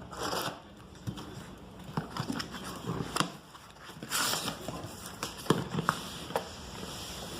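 Packaging being handled during an unboxing: short bursts of rustling and scattered sharp clicks and knocks.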